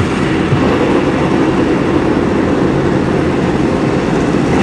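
Drag-racing motorcycle engines running, a loud, steady engine sound.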